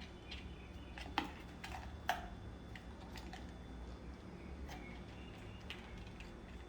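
Scattered light taps and clicks, the two sharpest about a second and two seconds in, with a few faint short chirps from a pet parakeet.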